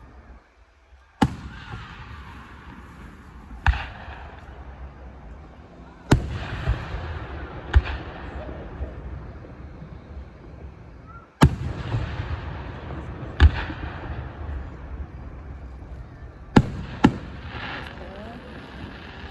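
Fireworks going off: about eight sharp bangs, spaced irregularly from half a second to a few seconds apart, each followed by a rumbling, crackling tail.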